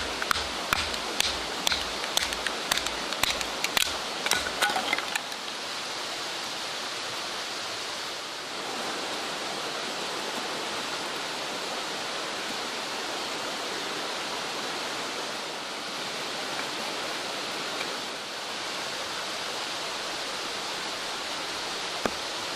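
Mountain stream flowing steadily. During the first five seconds a quick run of sharp knocks and clicks sounds over the water.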